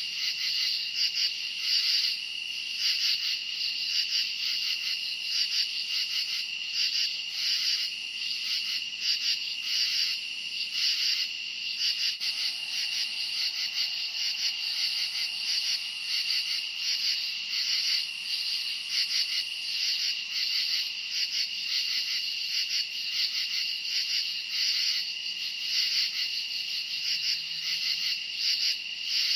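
A dense chorus of crickets chirping, a continuous high-pitched pulsing trill that holds steady throughout.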